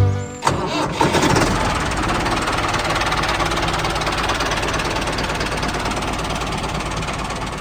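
A small motor-driven machine running steadily with a fast, even rattle, starting about a second in just after a short stretch of guitar music ends.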